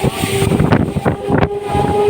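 Suburban electric local train running, with a busy rattling of quick knocks over a steady whine.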